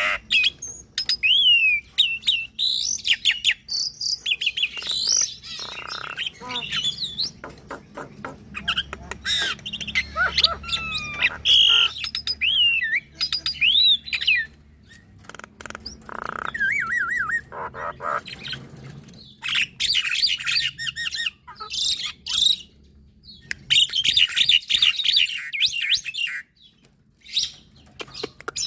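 Javan myna and black-winged myna singing in a duet: a varied run of whistles, chirps and notes that slide up and down, with quick trills and bursts of harsh, dense chatter in the later part.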